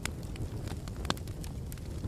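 Wood fire crackling in a fireplace: a low steady rumble of flames with scattered sharp pops and snaps, one louder pop about a second in.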